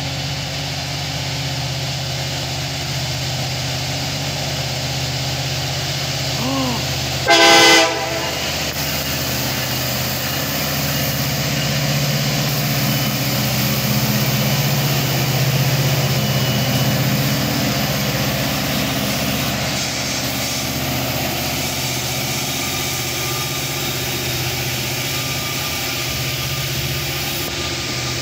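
A diesel freight train led by an EMD SD70ACe and a GE AC4400CW locomotive runs past at close range, its engine drone steady and a little louder around the middle as the lead unit goes by. About seven seconds in, the lead unit's Nathan K5LA five-chime horn gives one short, loud blast.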